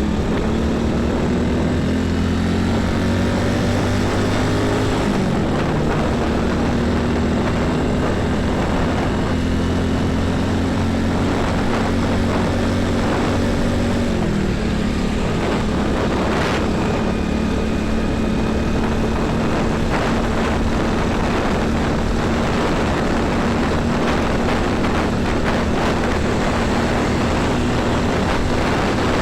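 Heavy truck and bus diesel engines running in passing highway traffic, a steady droning mix with engine notes that shift and drop in pitch as vehicles change speed, about five seconds in and again about fourteen seconds in.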